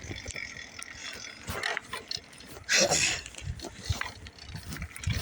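Dog barking, loudest about three seconds in.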